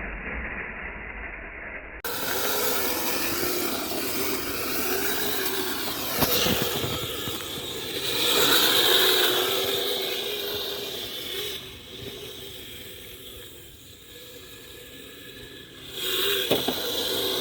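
Kyosho Blizzard RC snowcat running through snow: its electric motor whines, the pitch wavering up and down with the throttle, over a steady hiss from the tracks churning snow. It eases off for a few seconds past the middle, then picks up again near the end.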